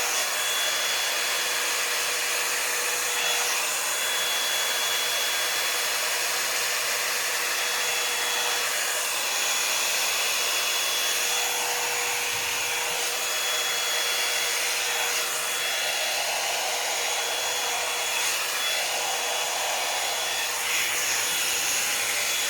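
Revlon One-Step hot-air brush dryer blowing steadily, with a constant airy rush and a thin steady whine from its motor. It cuts off at the very end.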